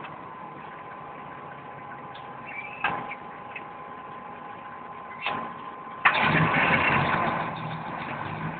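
Engine starting: two short knocks, then about six seconds in it catches suddenly and loudly, settling after a second or so into a steady idle.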